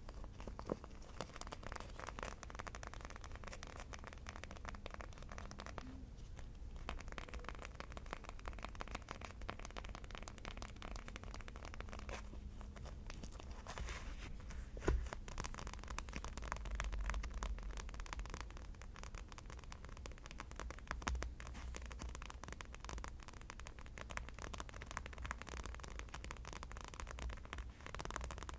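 Rapid, continuous tapping and scratching on an object, a dense run of small clicks with an occasional louder knock.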